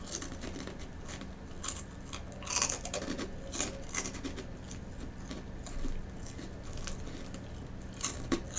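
Person chewing a crunchy sweet soy sauce cracker, with irregular crunches close to the microphone over a steady low hum.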